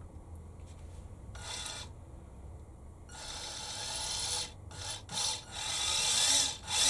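Electric motor and gearbox of a Tamiya Mini radio-controlled car run in short bursts of throttle: a rasping whir, once briefly about a second and a half in, then starting and stopping several times from about three seconds in.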